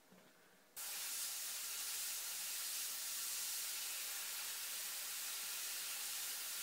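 Airbrush spraying white paint: a steady hiss of air and paint that starts abruptly about a second in and holds evenly.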